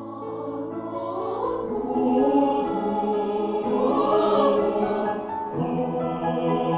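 Mixed choir singing sustained chords in close harmony, growing louder over the first two seconds, with a new chord entering about five and a half seconds in.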